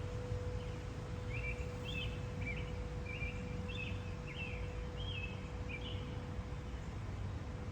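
A songbird singing a series of short chirping notes, roughly two a second, that stops about six seconds in. Underneath are a steady low outdoor rumble and a faint steady hum.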